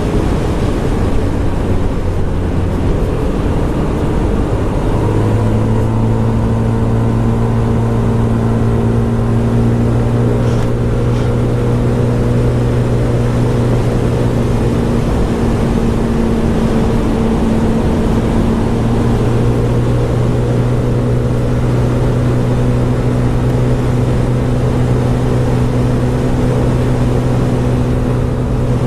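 Scomadi TT125 scooter's 125cc engine running under way. Its note climbs about five seconds in, eases off briefly in the middle, then picks up again and holds steady.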